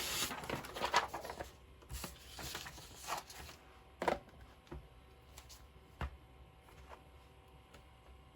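A sheet of scrap paper rustling and sliding as it is handled, followed by two light knocks a couple of seconds apart.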